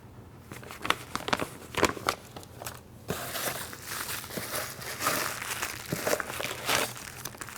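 Paper instruction sheet being handled and unfolded, crinkling and rustling: a few separate crackles at first, then steady rustling from about three seconds in.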